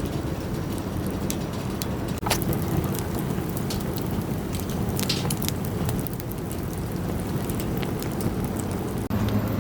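Campfire crackling: a steady low rush of burning wood with scattered sharp crackles and pops. It breaks off for a moment about two seconds in and again near the end.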